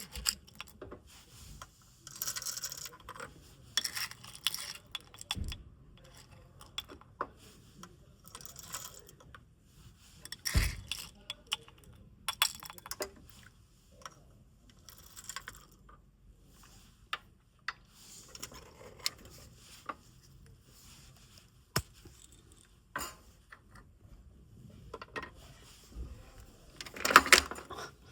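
Eating utensils and dishes clinking and knocking now and then during a meal, with short separate clinks and a couple of louder knocks about ten seconds in and near the end.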